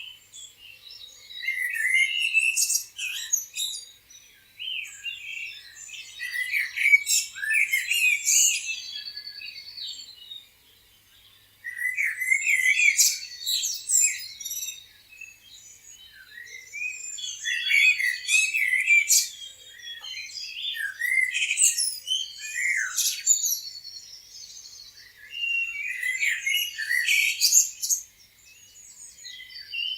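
Small birds chirping in quick, overlapping flurries of high calls, broken by brief lulls.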